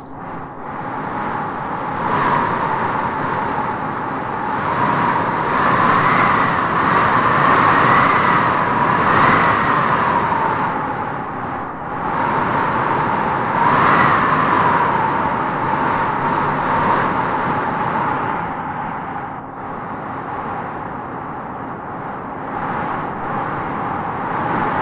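Wind howling in gusts: a steady rush with a whistling howl that rises and falls in pitch, swelling strongest about a quarter of the way in and again just past the middle.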